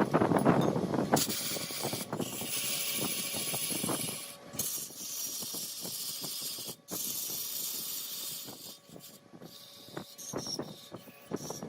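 Large wood lathe turning a mahogany workpiece while a cutting tool shaves it: a high hiss of cutting with scraping and clicking of chips, loudest in the first second. The hiss cuts off and comes back abruptly several times.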